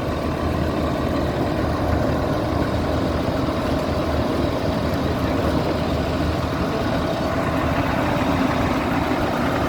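Caterpillar motor grader's diesel engine running steadily, with a faint hydraulic whine as a control lever moves the jack in and out.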